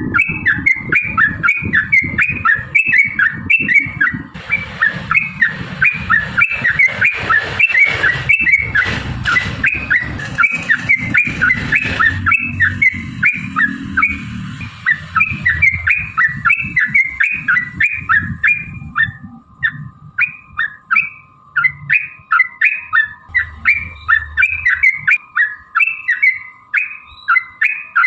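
Yellow-vented bulbul (trucukan) singing a long, rapid chattering song of short repeated notes, about three a second, without a break. A low rumble sits under the song for the first half.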